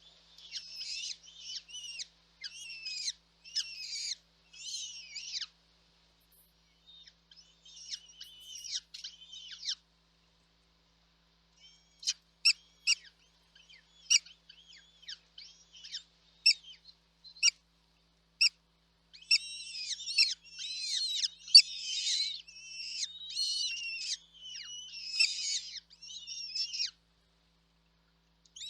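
Nestling birds' high-pitched begging calls in rapid bursts, broken by two short pauses, with a string of sharp single chirps in the middle and denser calling near the end.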